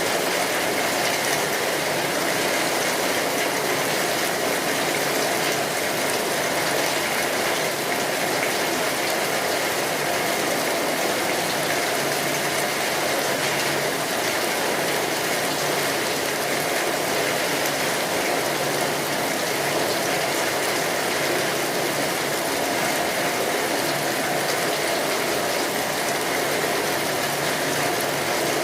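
Steady rain drumming on a tin roof, a dense even patter, with a wood fire crackling.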